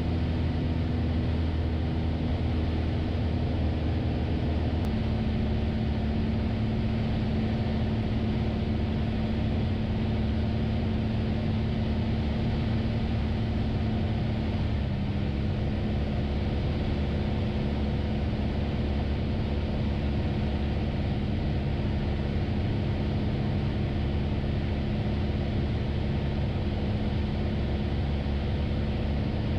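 Light aircraft's piston engine and propeller drone steadily, heard from inside the cockpit. The engine note steps down slightly about five seconds in and again about fifteen seconds in, as power comes back for the descent to circuit height.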